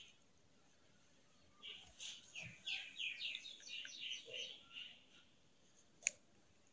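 A bird singing faintly, a quick run of short falling chirping notes lasting about three seconds. Near the end there is one sharp click.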